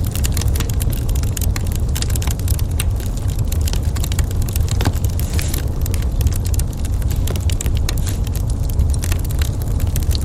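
Wood fire crackling in a fireplace: a dense run of irregular sharp pops and snaps over a steady low rumble.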